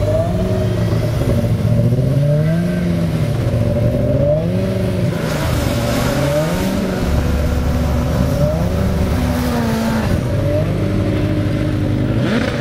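Formula Student race car engine revving hard, its pitch climbing and dropping over and over, every second or two.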